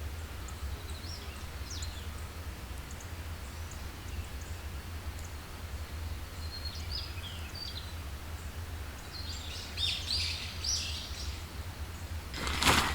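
Wild birds chirping in short bursts over a steady low background hum, the calls loudest about ten seconds in. A sudden loud noise just before the end.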